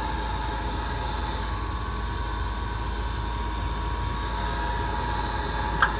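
Gas furnace starting up after a transformer repair: a steady motor hum with a thin steady tone above it, and one sharp click near the end.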